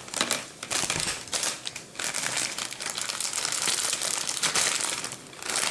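Packaging crinkling and rustling as the parts of a small Playmobil fence are unwrapped: a few separate crackles, then about three and a half seconds of steady crinkling that dies down near the end.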